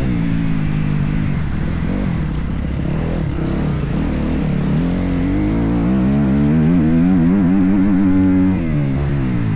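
Motocross bike engine revving up and down while being ridden: the pitch climbs about five seconds in, holds high with small rises and dips, then drops sharply near the end.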